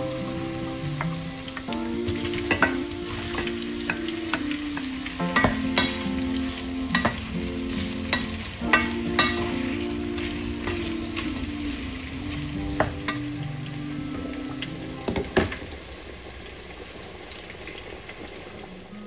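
Shredded chicken and sliced sausages sizzling as they are stir-fried in a nonstick pot, with a wooden spatula knocking and scraping against the pot every second or so.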